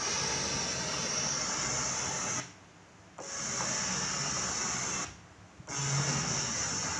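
Roland Fantom XA synthesizer's audio output giving a steady hiss with a strong high band, the noise fault under repair. It cuts out twice briefly, about two and a half seconds in and again about five seconds in.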